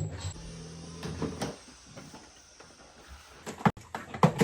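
A low hum for about a second, then scattered knocks and clicks that come thick and fast near the end: parts and tools being handled.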